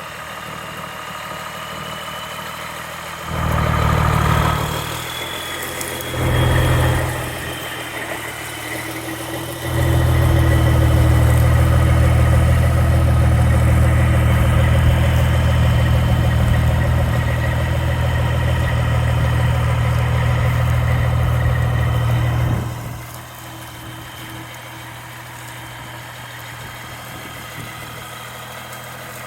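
Cummins M11 diesel engine of a 1994 International 8400 semi tractor idling with a faint high whine, blipped twice briefly about three and six seconds in, then held at raised revs for about twelve seconds before dropping back to idle.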